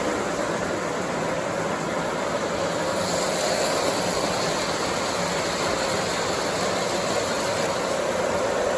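O scale model train running on its track: a steady, unbroken rolling rumble and hum.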